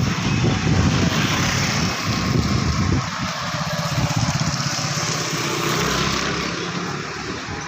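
A motor vehicle's engine running close by, loudest and rumbling over the first three seconds, then a steadier, quieter hum, over a steady hiss.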